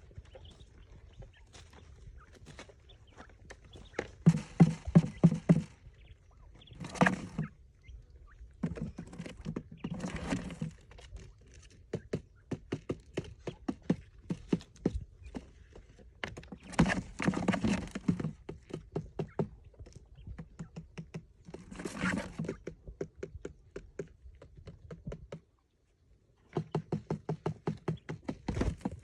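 Rapid light tapping and knocking, several taps a second, with louder spells of denser knocks lasting about a second each.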